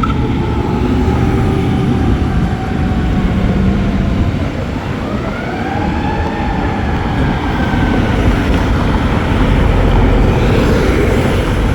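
Fire engine siren wailing. It sinks slowly at first, rises again about five seconds in and then falls away, over a heavy low rumble of engine and road noise.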